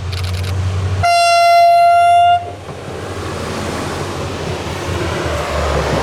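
Steam whistle of locomotive 23 042 sounding one long blast about a second in, lasting about a second and a half, followed by the steady rushing noise of the train running by.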